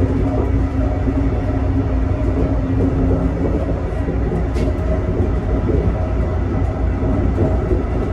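Steady low rumble of a Brightline passenger train running on the track, heard from inside the train's enclosed lavatory.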